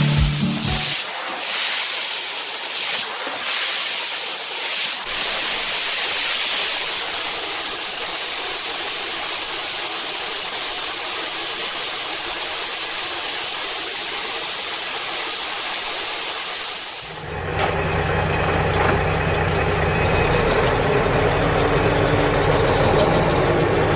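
A steady hiss for about sixteen seconds, then an abrupt change to a vehicle engine running with a steady low hum.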